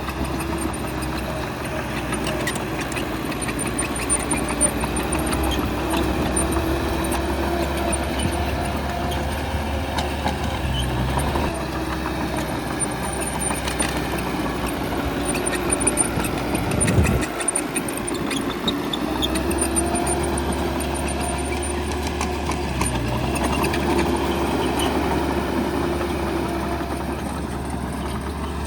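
Bulldozer's diesel engine running, its pitch rising and falling with the work, with scattered metallic clanks; the deep engine hum drops briefly about two-thirds of the way through.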